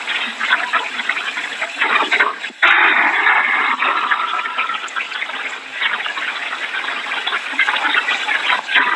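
Heavy rain pouring down: a loud, steady rushing, dipping briefly about two and a half seconds in and then swelling louder for a second or so.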